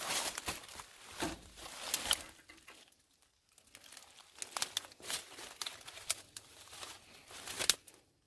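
Irregular rustling, crinkling and tearing sounds of material being handled, with sharp clicks and a short lull about three seconds in. The sound cuts off suddenly near the end.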